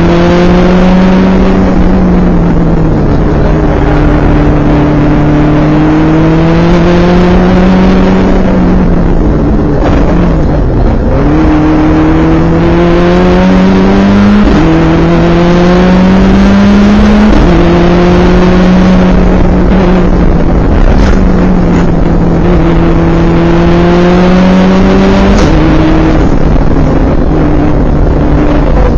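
Subaru WRX's turbocharged flat-four engine heard from inside the car under hard driving, its note climbing under throttle and dropping sharply at each gear change, several times, with a dip under braking for a bend.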